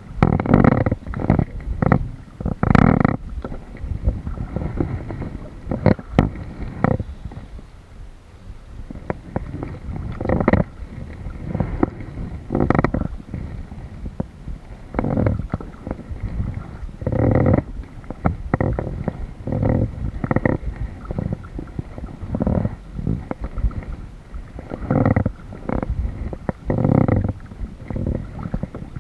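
Water sloshing and splashing against a kayak in irregular low surges, each lasting up to about a second.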